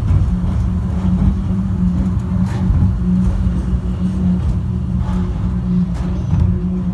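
Airport subway train running between stations, heard from inside the car: a steady low rumble with a constant motor hum.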